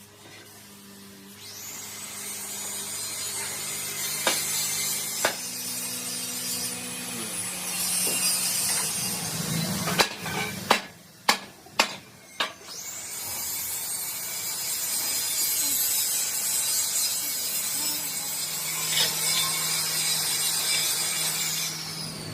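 A power tool runs twice: it winds up, runs steadily, stops, then winds up again and winds down near the end. Between the two runs come five or six sharp knocks.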